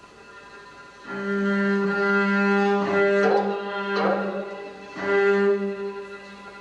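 Dance accompaniment music: a low bowed string instrument holding long, steady notes, with new notes coming in about three, four and five seconds in.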